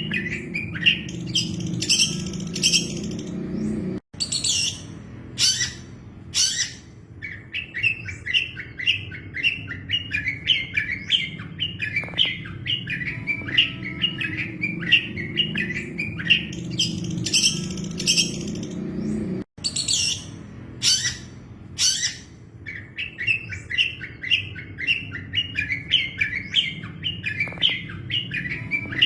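Long-tailed shrike (cendet) singing a fast, continuous run of short chattering notes, broken by a few louder harsh calls, over a steady low hum. The song cuts out for an instant twice, about 4 and 19 seconds in, where the looped recording repeats.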